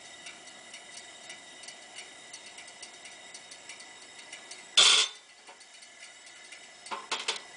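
Faint steady hiss of a Coleman two-burner camp stove turned down low under a simmering pot of soup. One sharp knock about five seconds in, and a few light clicks near the end.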